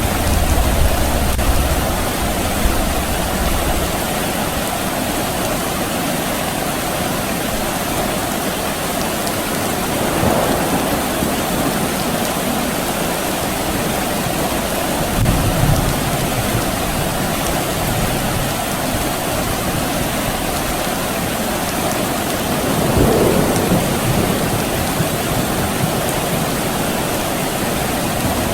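Steady rain falling, an even hiss, with low rumbles of distant thunder that come and go, one at the start and another about halfway through.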